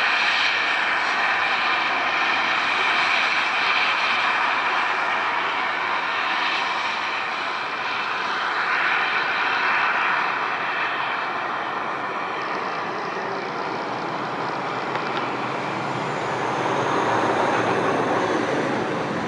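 Steam-hauled metre-gauge toy train running at a distance, heard as a steady rushing rumble with no distinct chuffs. It swells a little near the end.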